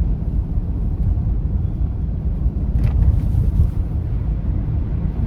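Steady low rumble of a car driving slowly on snowy roads, engine and tyre noise heard from inside the cabin, with a faint short tick about three seconds in.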